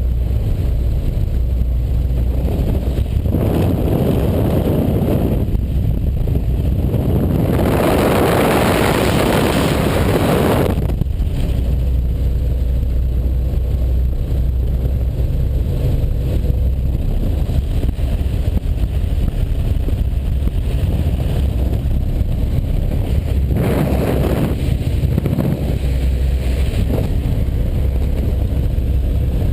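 Robinson R44 helicopter in flight heard from inside the cabin: a steady, loud drone of the piston engine and rotor, with rushing wind swelling over the microphone three times, longest about eight seconds in.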